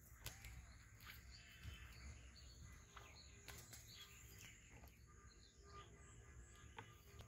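Faint rural ambience: scattered small bird chirps over a low rumble, with a few soft clicks and a steady high insect-like whine.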